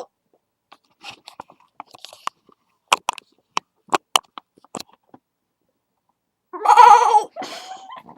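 A girl makes a loud, goat-like bleating noise with her voice near the end, after a few seconds of scattered faint clicks and knocks.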